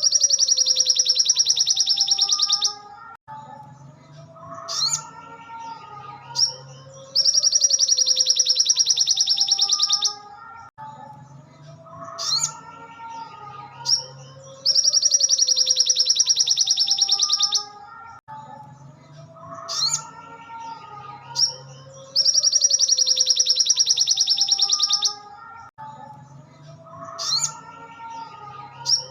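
Looped recording of a crimson sunbird (sogon) song: a loud, rapid, high trill lasting about three seconds, repeated four times at roughly seven-second intervals, with short rising chirps between the trills. A quieter tune plays underneath.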